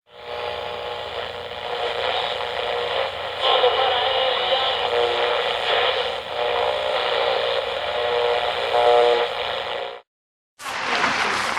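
Steam train sound effect on an old radio broadcast recording: a steady mechanical clatter with some steady whistle-like tones. It cuts off suddenly about ten seconds in, and after a short silence applause begins.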